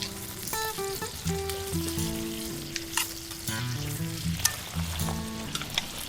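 Food sizzling and frying in a pan, with scattered crackles, under background music with a melody and bass line.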